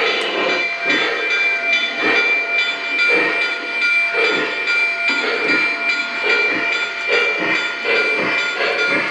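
Model steam locomotives running, their sound units giving a hissing chuff about twice a second, slightly uneven, over steady high tones.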